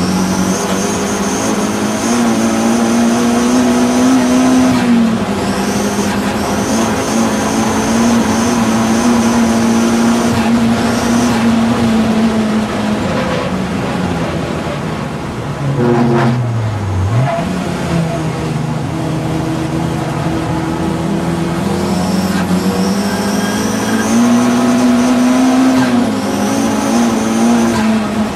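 Audi TT race car's engine running hard at high revs, with a high whine above the engine note. About 16 seconds in, the revs drop sharply as it slows, then build back up.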